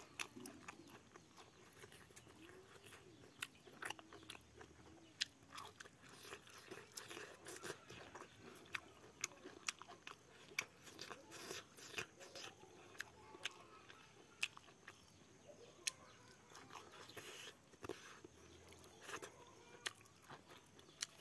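A person chewing and eating with the mouth, close to a clip-on microphone: quiet chewing with frequent short, sharp lip smacks and clicks.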